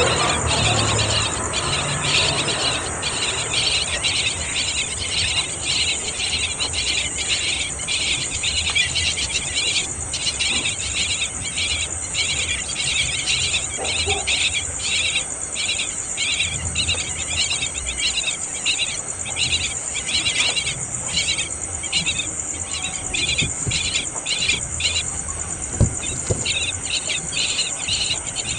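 A chorus of insects chirping: a steady high trill with a rapid, pulsing run of shorter chirps beneath it.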